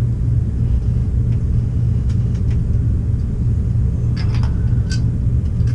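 Steady low machine rumble, with a few light metallic clicks of parts being handled about four to five seconds in.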